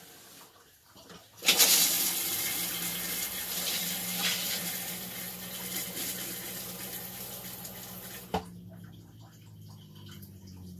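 Thetford RV toilet being flushed: water rushes into the bowl for about seven seconds and stops with a sharp click as the flush valve closes. A low hum runs under the water and carries on a few seconds after it stops.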